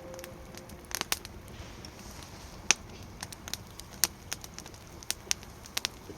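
Wood fire burning in a fire pit stand, with irregular sharp crackles and pops over a faint hiss.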